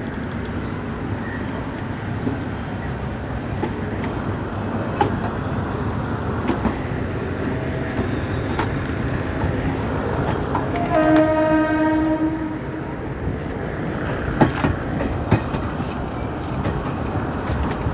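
Local commuter train running with a steady rumble and scattered knocks and clacks. Its horn sounds about eleven seconds in and is held for nearly two seconds.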